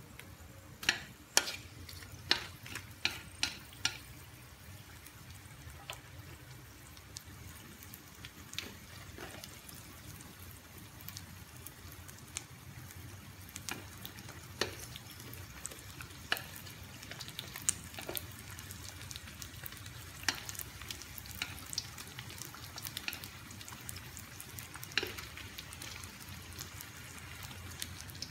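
Pieces of sesame rice paper sandwiched with fish cake sizzling steadily as they fry in oil in a steel wok. Sharp clicks and pops come through the sizzle, several in quick succession about a second in and more scattered after that.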